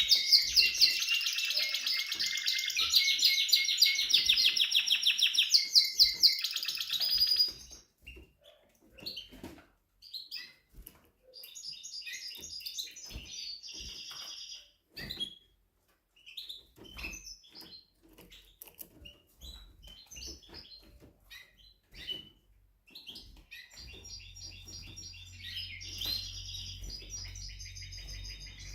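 Spanish Timbrado canary singing: a loud run of rapid trills for about seven seconds, then scattered short chirps and clicks, with the trilled song starting again near the end.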